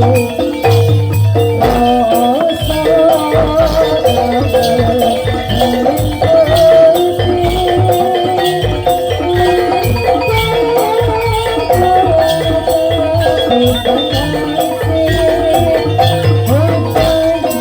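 Jaranan Dor ensemble music played live: rapid percussion and repeated low drum strokes under mallet-struck metal tones, with a wavering melody line held above them.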